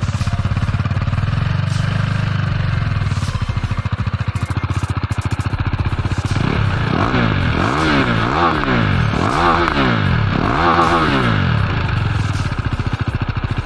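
KTM Duke 390 (2018, BS4) single-cylinder engine on its stock exhaust, idling steadily. About halfway through it is blipped four times, pitch rising and falling with each rev, then it settles back to idle.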